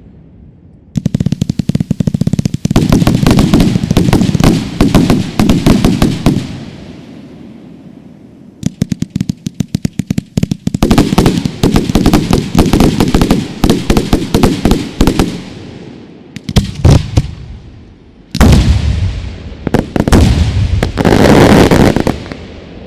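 Fireworks going off: several volleys of rapid, dense cracks and bangs, the first starting about a second in, another after a short lull, a brief one, then a final loud volley with heavier booms near the end.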